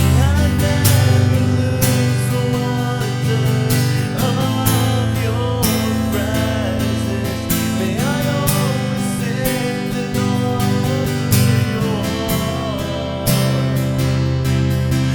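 Acoustic guitar strumming steady chords in a slow worship song, with a melody line rising and falling above it.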